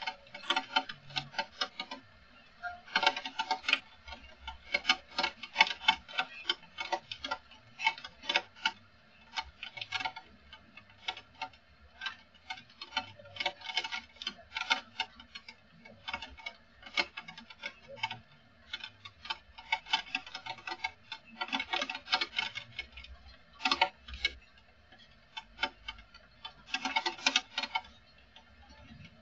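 Raindrops striking close to the microphone: irregular sharp ticks and taps, some in quick clusters, with short quiet gaps between.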